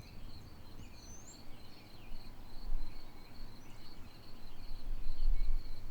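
Crickets chirping in a steady, pulsing high trill, with a few faint bird chirps and a low rumble that swells near the end.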